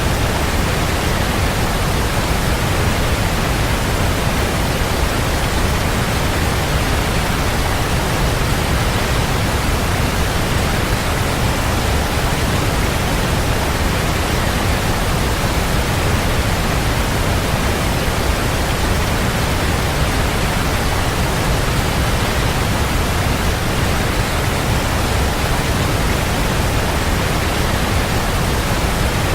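Waterfall: a steady, even rush of falling water, heaviest in the low end, with no change throughout.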